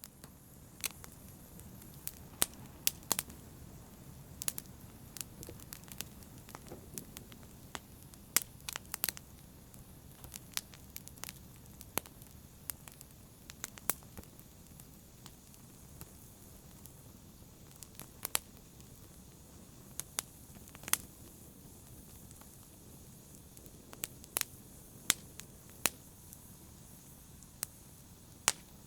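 Wood fire in a fireplace crackling, with sharp irregular pops over a low, steady rumble of the flames.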